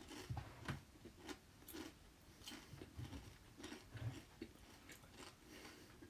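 Near silence: faint room tone with scattered soft clicks and small thuds close to the microphone.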